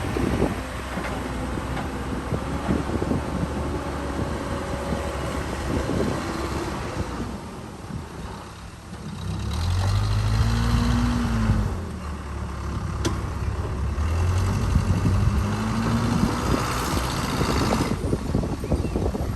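Case 580C backhoe's engine running, its revs rising and falling twice, about halfway through and again a few seconds later, with scattered knocks and clanks from the machine.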